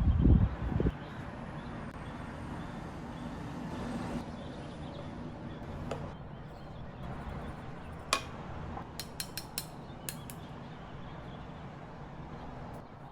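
Kitchen handling sounds: a few low thumps right at the start, then a sharp clink about eight seconds in and a quick run of small clicks soon after, over a steady low background hum.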